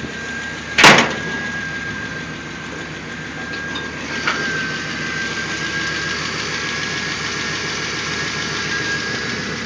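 A 1990 GMC Vandura box truck's 350 V8 idling steadily, with a thin steady whine over the engine noise. A single loud sharp thump about a second in.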